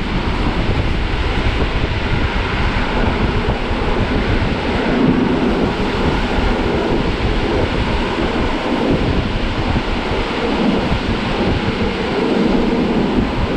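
Regional passenger train running, heard at a carriage window: a steady low rumble with wind rushing past, swelling slightly a couple of times.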